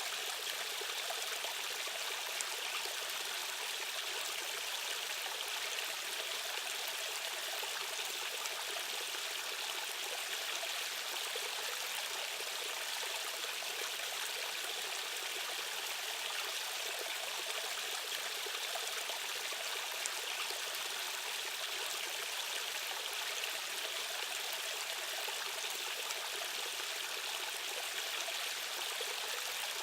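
Steady rushing of a fast-flowing stream or small waterfall, an even hiss of running water with the most energy in its upper range and little low rumble.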